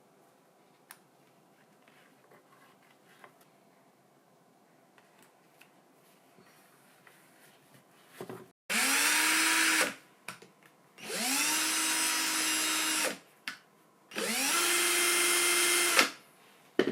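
Restored cordless drill, fitted with a new chuck and run on a lithium battery, running in three bursts of one to two seconds each. Each time the motor whine rises as it spins up and then holds steady. Small handling clicks come before the runs, and a sharp click follows the last one.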